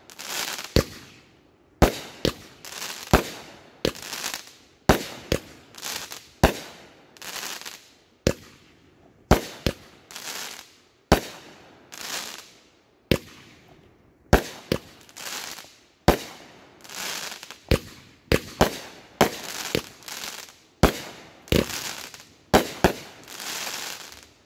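Consumer aerial fireworks bursting overhead in rapid succession, about one or two sharp bangs a second. Each bang is followed by a short hissing crackle.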